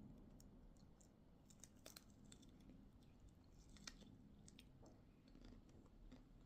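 Faint scattered clicks and soft chewing sounds of someone eating, a few sharp ticks standing out around two and four seconds in.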